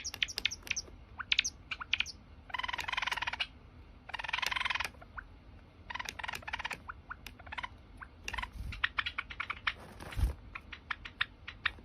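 Java sparrow song: runs of sharp clicking notes broken by several short bursts of fast chattering trill.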